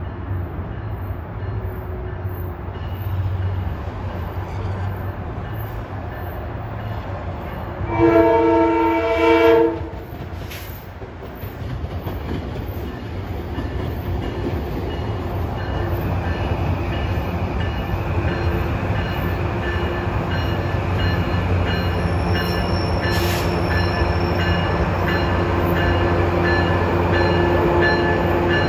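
A train horn sounds a multi-note chord for under two seconds, about eight seconds in, in two pulses. Around it, a Metro-North electric multiple-unit train runs through the station with a steady electric whine and rumble that grows louder toward the end.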